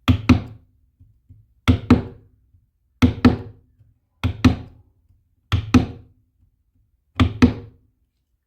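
Sharp knocks struck in pairs, six pairs about a second and a quarter apart, each knock ringing briefly.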